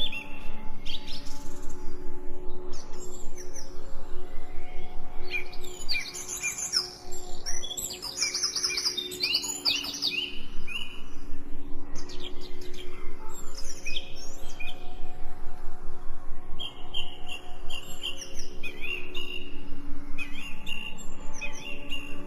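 Songbirds chirping and trilling in quick, overlapping calls, busiest around the middle, over a steady low hum of held tones.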